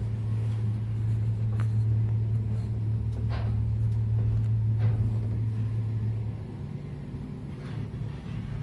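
Passenger elevator running in its shaft with a steady low hum, its counterweight guide shoes freshly fitted with new liners and the rails just oiled. A few light clicks come through, and the hum drops off about six seconds in as the lift slows.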